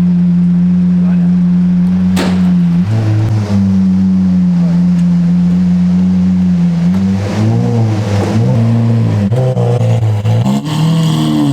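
Lamborghini Aventador SVJ's V12 engine running at steady revs, then blipped several times in quick rising-and-falling revs near the end.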